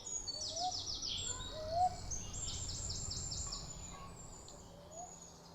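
Woodland birdsong: small birds singing two rapid runs of high, evenly repeated notes, the second longer, with a few short rising whistled notes in between, over a low steady background rumble.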